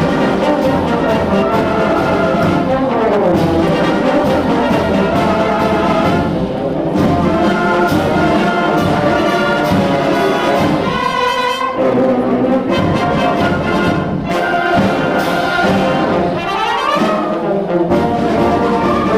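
Student concert band playing a fast circus march, brass to the fore, with the trombones sliding up in pitch a few times, about three seconds in and again near the end.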